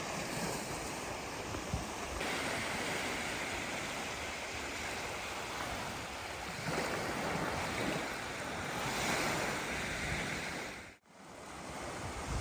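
Steady rushing noise of wind, swelling a couple of times, then cutting off suddenly for a moment near the end.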